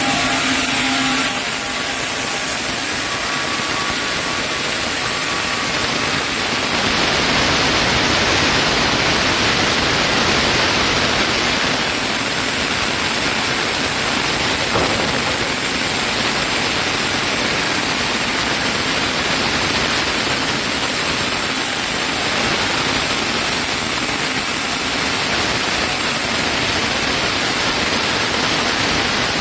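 Sawmill saw running through a chinaberry log: a loud, steady rush of cutting noise. A humming tone fades out about a second in.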